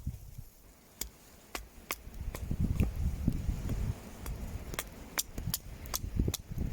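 Wood fire crackling, with irregular sharp pops. A low rumble swells underneath from about two to four seconds in.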